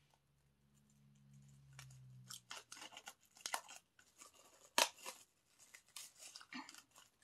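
Plastic wrapping being cut and torn off a music album: a run of crackly rips and scrapes starting about two and a half seconds in, with one sharp snap near the middle. A low hum fades out in the first couple of seconds.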